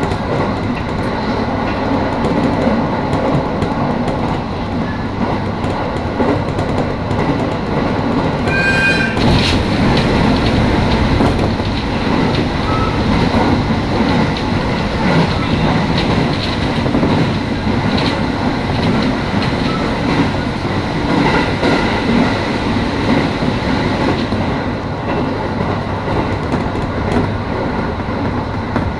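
Electric commuter train running along the line, heard from inside the front car: a steady rumble of wheels on the rails, with a brief high tone about nine seconds in.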